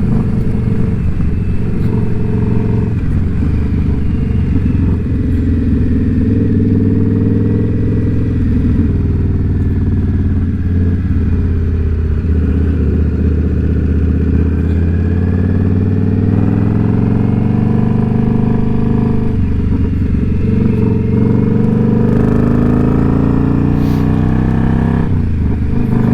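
Indian Scout Bobber's V-twin engine running under way through loud aftermarket pipes, the exhaust note rising and falling in pitch as the bike accelerates and shifts, with a long climb in pitch in the second half.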